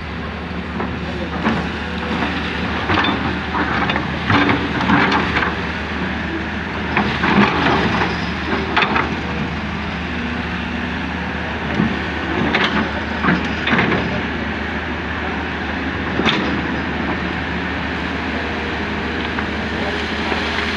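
Hydraulic excavator's diesel engine running steadily while it works soil, with brief louder noises coming and going over the engine several times in the first half and again around the middle.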